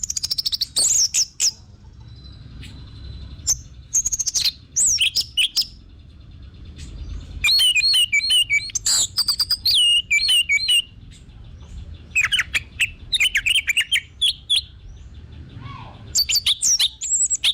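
Orange-headed thrush singing: bursts of quick, varied whistled phrases separated by short pauses, with the longest and loudest run near the middle.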